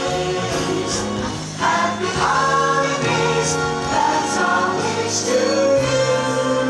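Choral music: a choir singing long held chords over a steady low bass line.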